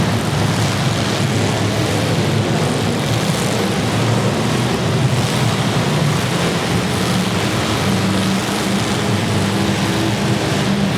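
Engines of demolition derby cars running together in a steady loud din, with no single crash standing out.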